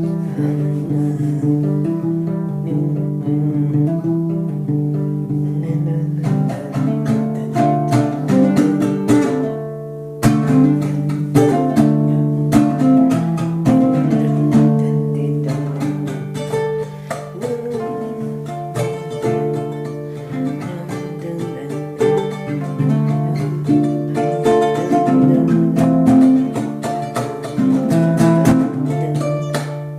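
Acoustic guitar music, plucked notes and strums over sustained low bass notes, with a short drop and a fresh strong strum about ten seconds in.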